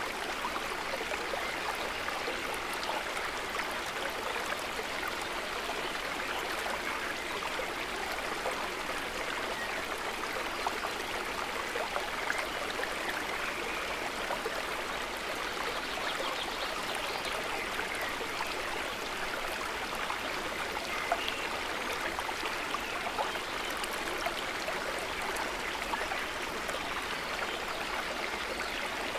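Running river water: a steady rush with small scattered splashes.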